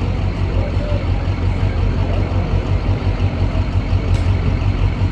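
Engine of a 2006 Chevy pulling truck running at idle: a steady, low rumble with a lumpy, uneven pulse and no revving.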